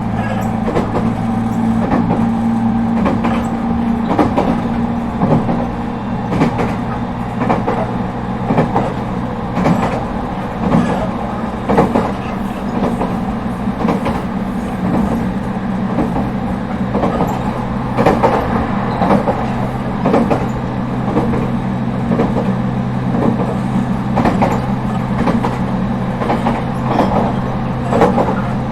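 ET127-series electric train running along the track: irregular clatter and knocks of the wheels over rail joints over a steady running hum. A higher steady tone fades away within the first few seconds.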